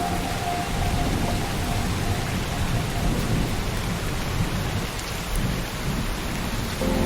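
Steady rain falling, with a low rumble of thunder underneath. Soft held music tones fade out early and come back in near the end.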